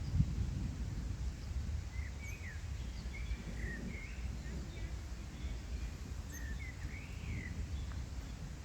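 Low rumble of thunder dying away, loudest right at the start, with short, rising and falling bird chirps from about two seconds in.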